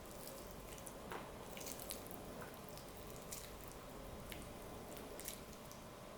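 Faint kitchen handling sounds: scattered small clicks and soft wet squishes over quiet room tone.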